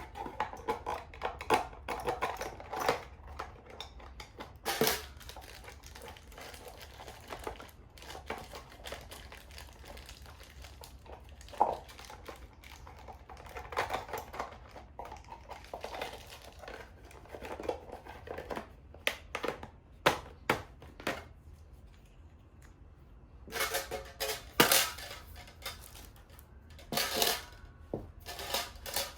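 Metal objects being handled: irregular clinks, knocks and clatter, some with a short metallic ring, coming in bursts and busiest near the end.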